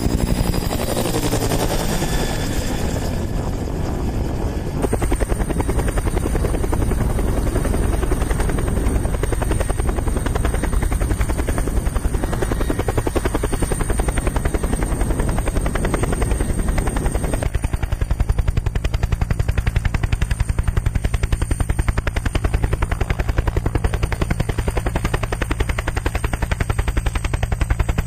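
Military helicopter in flight: a steady, fast chop of the rotor blades with a high, steady turbine whine above it. The sound shifts abruptly twice, about 5 seconds in and again past the halfway point.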